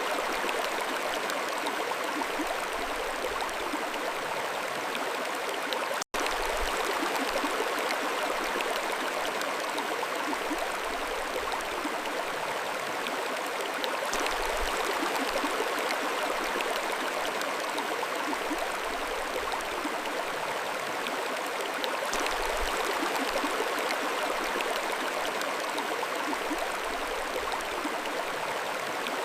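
Mountain stream flowing, a steady rush of water with no change in level. There is a momentary dropout to silence about six seconds in.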